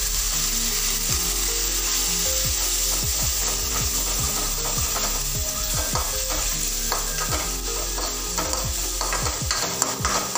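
Onion and spice masala sizzling in an aluminium kadai after a little water has gone in, while it is stirred. The stirring scrapes and clicks against the pan irregularly over a steady sizzle.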